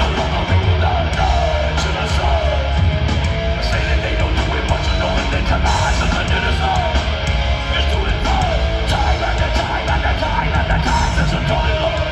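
Heavy metal band playing live at full volume: dense distorted guitars over heavy bass and drums, with gliding guitar or vocal lines on top.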